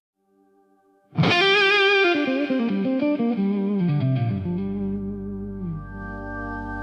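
Blues gospel music intro: an electric guitar with effects comes in loudly about a second in and plays a descending run of notes, settling on a held note over a steady low bass tone.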